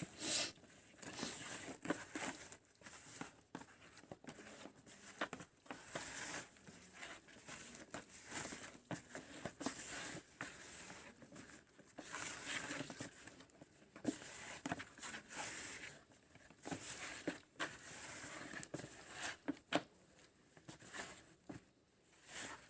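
Raw chicken pieces being turned and pressed by hand in a dry seasoned flour and cornflour coating: irregular soft pats, rustles and light knocks.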